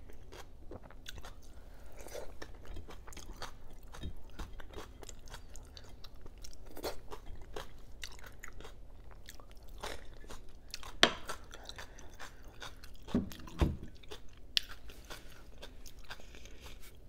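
Close-miked chewing of food, with many small wet clicks and crunches and a few louder crunchy bites about two-thirds of the way through.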